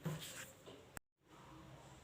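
A brief voice sound at the start. About a second in, a sharp click is followed by a moment of dead silence, then faint steady room tone.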